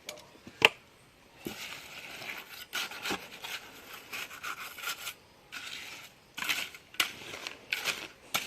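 A metal tool scraping through wet cement mortar in a run of rasping strokes with short pauses between them, after a single sharp click about half a second in.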